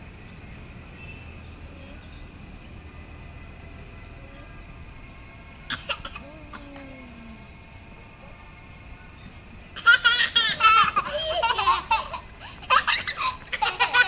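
A small child laughing hard in loud, repeated peals, starting about ten seconds in. Before that there is only a faint steady high tone and a couple of brief knocks.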